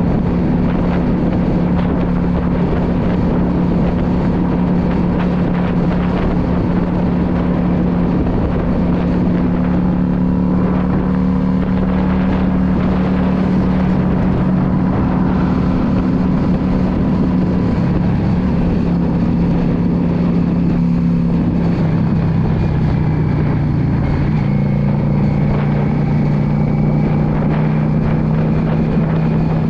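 2016 Yamaha V Star 650's air-cooled V-twin engine running steadily under way. Its note steps lower about two-thirds of the way through, then holds steady.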